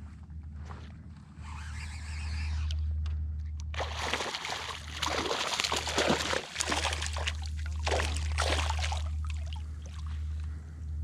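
Water sloshing and splashing close by, loudest from about four to nine seconds in, over a steady low rumble.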